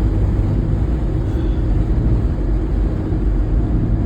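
Steady low rumble of a vehicle driving, with engine and road noise.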